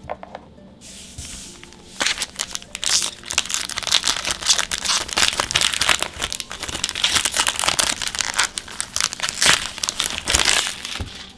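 Magic: The Gathering booster pack wrapper crinkling and tearing as it is handled and ripped open, a dense crackle that starts about two seconds in and stops just before the end.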